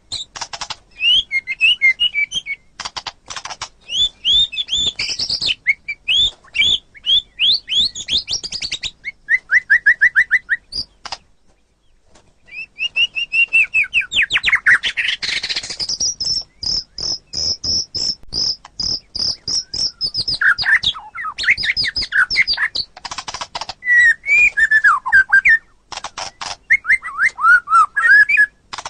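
White-rumped shama (murai batu) singing a varied song of loud whistled phrases and rapid trills, pausing briefly about 11 seconds in, then a long fast run of repeated high notes lasting about six seconds.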